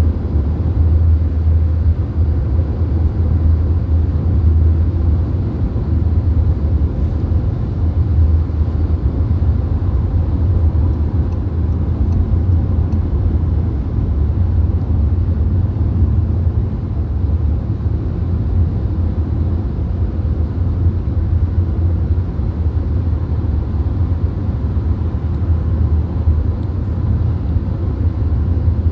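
Steady road noise inside a VW Golf cruising on the motorway: a low, even rumble of tyres and engine with a fainter hiss above it.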